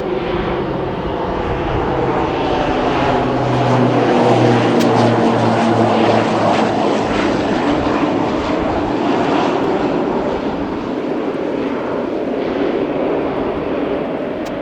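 Airliner passing close by: a loud engine roar that builds over the first few seconds and then slowly fades, with a low steady hum that dies away about halfway through.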